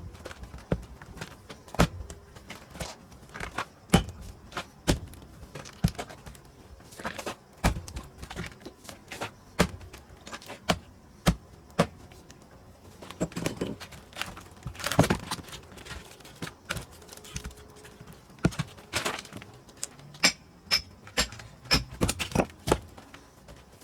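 Firewood-splitting work: a string of sharp knocks and clunks of wood, irregular, about one to two a second, some much louder than others. Near the end comes a run of lighter, evenly spaced taps with a high ringing.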